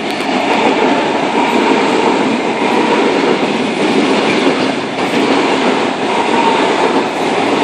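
A Sydney Trains Tangara electric suburban train passing through the station: a steady wheel-on-rail rumble with a faint steady whine.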